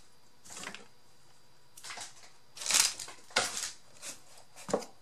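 Paper and cardboard craft pieces being handled: a few short rustles and scrapes, the loudest about three seconds in.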